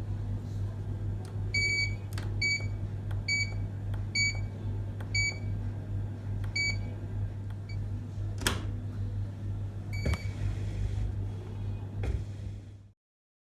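A kitchen appliance beeping electronically: about eight short identical beeps just under a second apart, then one more beep later, over a steady low hum. A few sharp clicks or knocks are heard, the loudest about two-thirds of the way through.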